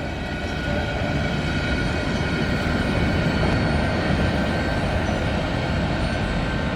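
Freight train's hopper cars rolling past, a steady rumble of wheels on rail with a faint squeal of wheel flanges.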